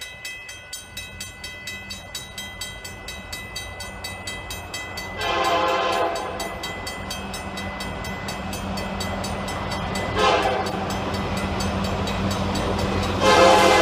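Train running with a steady hum and a fast, even clicking, its horn sounding about a second long some five seconds in, briefly again around ten seconds, and once more near the end, louder.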